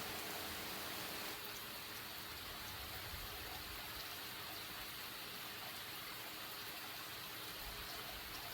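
Steady rain falling, an even hiss with no distinct drops or thunder; the sound shifts slightly about a second in.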